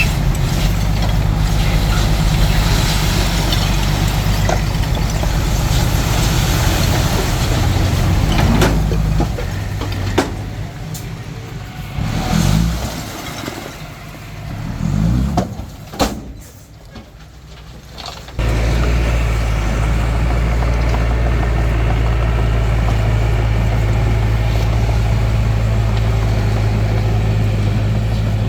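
A compact bulldozer's diesel engine running steadily. Midway it drops quieter for several seconds, with a few brief rising whines and a couple of sharp clicks. Then the steady engine sound comes back abruptly and holds.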